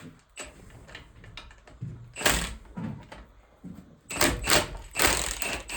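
A series of hard clunks and rattles, like heavy metal parts being handled and set down on a bench. One loud knock comes about two seconds in, and a cluster of knocks follows near the end.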